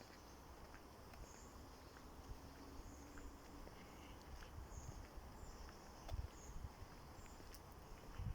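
Faint outdoor nature ambience: short, high chirps repeating about once or twice a second, over a low rumble with a couple of soft thumps.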